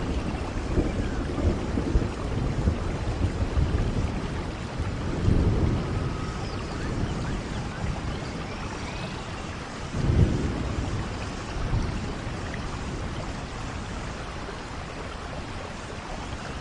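Steady rain with rolls of thunder, the low rumbles swelling about five seconds in and again about ten seconds in, then easing.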